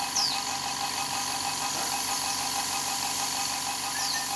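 A motor, most likely the paint shop's air compressor, runs steadily with a pulsing hum under a continuous hiss. Two short falling bird chirps sound, one at the start and one near the end.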